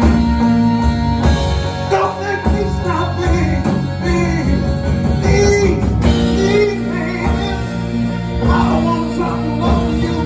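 Live band playing a slow soul ballad: held chords underneath, with a bending, wavering lead line over them from about two seconds in.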